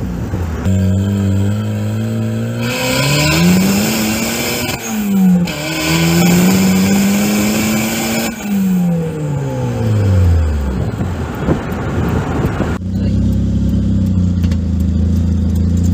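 Turbocharged Mazda Miata 1.6 L B6 four-cylinder engine pulling hard under acceleration, rising in pitch, then dropping quickly at a gear change about five seconds in and rising again. It then falls away as the throttle is lifted, and settles into a steady low drone near the end.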